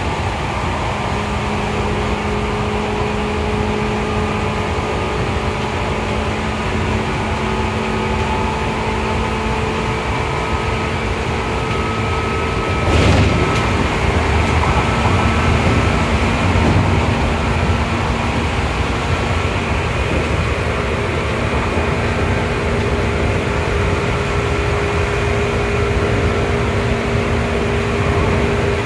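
Seibu 2000-series field-chopper-controlled electric train running at a steady speed, heard inside the passenger car: a constant rumble of wheels on rail with a few steady whining tones. About halfway through there is one sharp clatter, and after it the running noise is a little louder.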